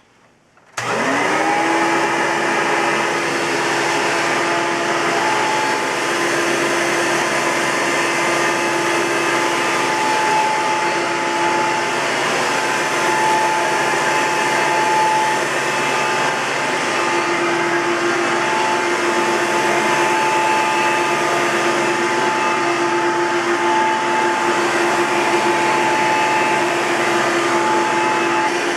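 1999 Hoover Soft & Light Elite upright vacuum cleaner switched on about a second in, its motor spinning up with a rising whine and then running steadily, a siren-like whine over the rush of air. The motor bearing, freshly greased, is worn and due for replacement.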